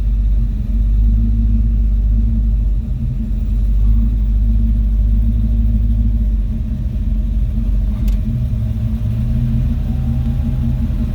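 Car engine idling steadily, heard from inside the car's cabin as a low, even hum, with a single click about eight seconds in.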